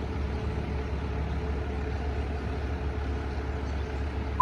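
Spartan Metro Star fire engine's diesel engine idling with a steady low hum.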